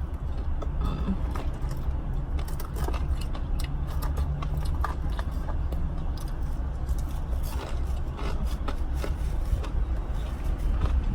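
Eating sounds, small clicks, crinkles and scrapes of food and packaging with chewing, over a steady low rumble from the car's running air conditioning.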